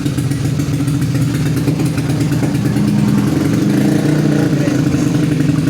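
Yamaha Mio scooter's single-cylinder engine, bored out to 155cc, running steadily at idle with little change in pitch. The engine has only just been started and is not yet warmed up.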